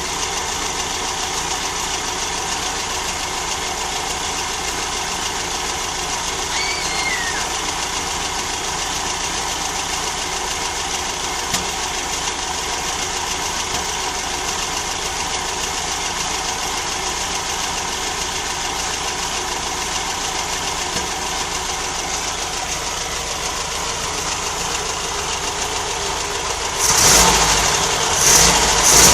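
1600 cc air-cooled flat-four engine of a 1965 VW Type 3 Notchback idling steadily, then revved in short blips of the throttle near the end.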